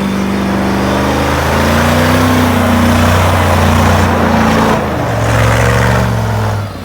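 Car engine running while warming up after a cold start, its pitch shifting a little. It briefly dips and comes back, then falls to a lower, quieter idle near the end.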